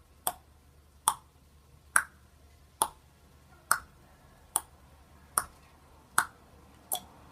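A sharp click repeated nine times at an even pace, a little more than once a second.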